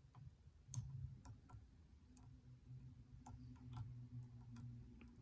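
Faint, scattered clicks of a lock pick working the pins inside a Stanley padlock's Schlage C keyway cylinder, about half a dozen over a few seconds, over a steady low hum.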